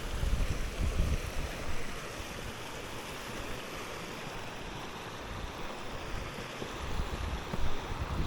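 Wind buffeting the microphone in gusts, strongest in the first couple of seconds and again near the end, over a steady rushing hiss.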